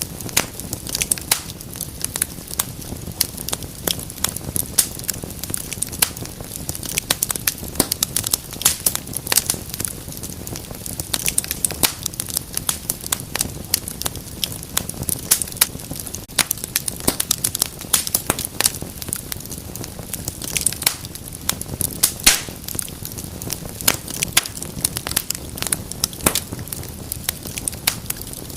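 Wood fire in a fireplace crackling and popping: many irregular sharp snaps over a low, steady rumble of flames.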